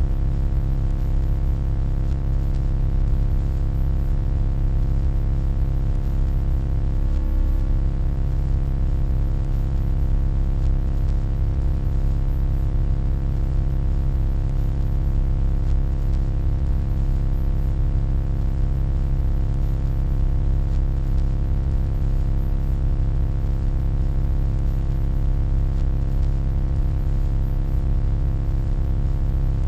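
Steady, deep electronic hum with many overtones, unchanging in level, over a faint hiss.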